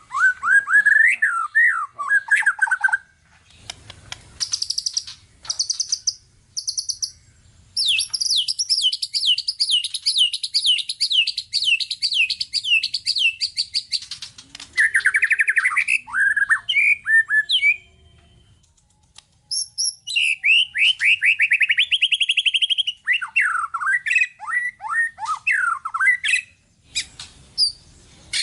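White-rumped shama (murai batu) singing a long, varied competition-style song: whistled phrases, sharp chips and fast rattling trills, broken by short pauses about three seconds in and again near the middle.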